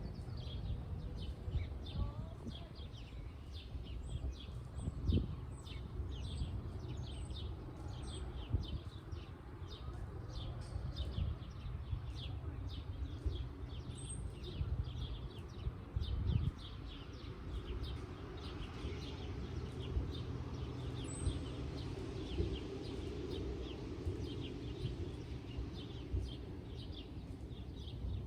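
Birds chirping over a steady low rumble, with a few soft thumps.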